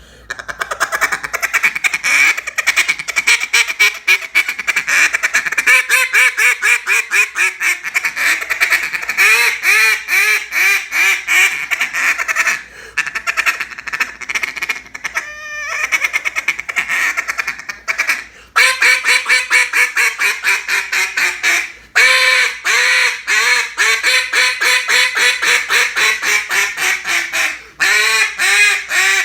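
Black River Duck Calls Tyrant single-reed duck call blown in a run of mallard calling: rapid quacks and fast chatter, with several strings of notes falling in pitch, broken by a few short pauses.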